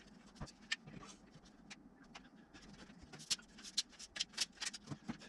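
Scattered light clicks and taps, coming more thickly in the last two seconds.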